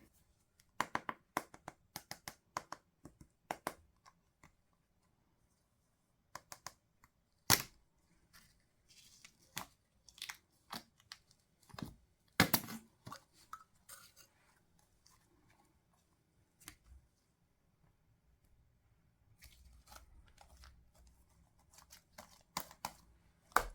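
Slime being pressed and pulled by hand, making scattered short sticky clicks and crackles. Two louder snaps come about a third of the way through and about halfway.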